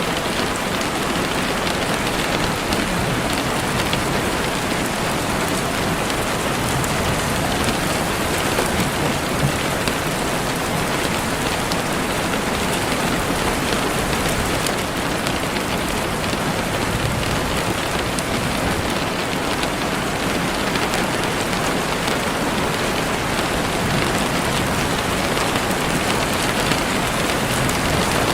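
Steady heavy rain falling on leaves and the forest floor, a dense even hiss of drops.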